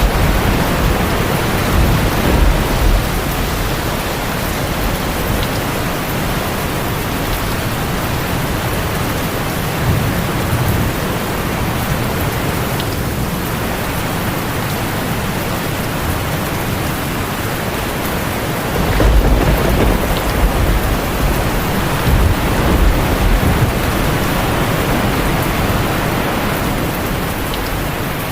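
Steady heavy rain, with low rumbles of thunder swelling under it a few times, most strongly about two-thirds of the way through.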